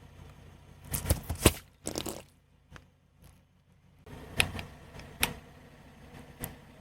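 A series of sharp cracks and crunches over a low steady hum. There is a cluster of several about a second in, then single cracks a few seconds apart.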